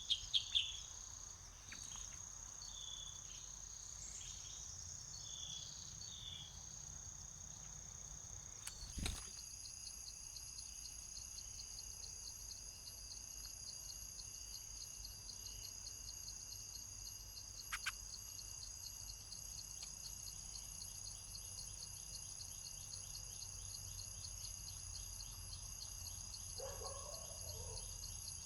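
Insects, crickets or cicadas, chirring steadily and high-pitched. A few faint short bird notes come in the first several seconds. About nine seconds in there is a sharp click, and a second, fast-pulsing insect chirr joins.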